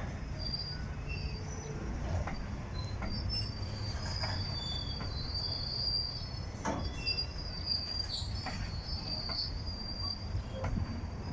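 Train rolling past with its wheels squealing on the rails: wavering high squeals that come and go over a steady low rumble, with a few sharp knocks.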